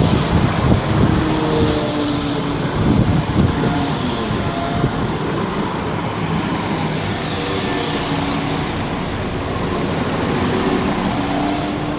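Two coupled Class 172 Turbostar diesel multiple units running into the station: a steady rumble of wheels on rail and underfloor diesel engines, with a few faint whining tones over it.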